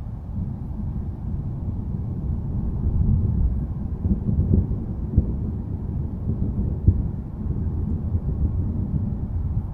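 Low rolling thunder rumble that swells over the first few seconds, with two brief sharper cracks around five and seven seconds in.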